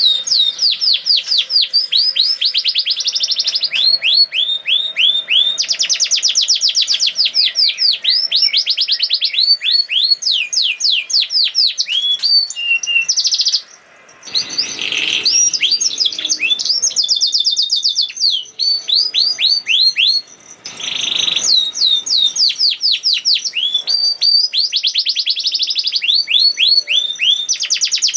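Domestic canary singing a long, fast song: rapid trills of quick falling whistled notes, several a second. There are two short breaks, about fourteen and twenty seconds in, each followed by a harsher, rougher note.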